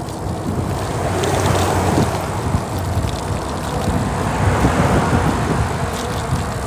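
Wind rushing over the microphone with road and tyre noise from a moving bicycle: a steady low rumble with gusty swells that grows a little louder about a second in.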